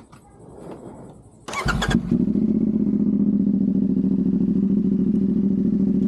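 A motorcycle engine is started about one and a half seconds in with a brief crank and catch, then settles into a steady idle.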